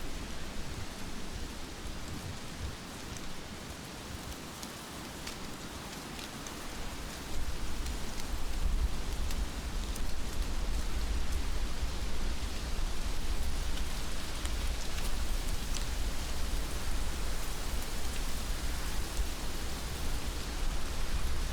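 Heavy rain falling steadily, with scattered sharp drips. A low rumble comes in about seven seconds in and the whole grows louder.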